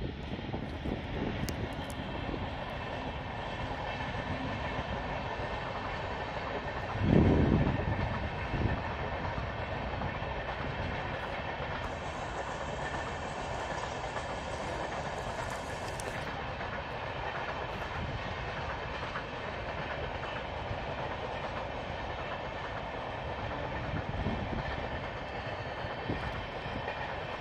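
Tamil Nadu Express passenger train passing, its coaches' wheels rolling steadily on the rails. A brief loud low thump comes about seven seconds in.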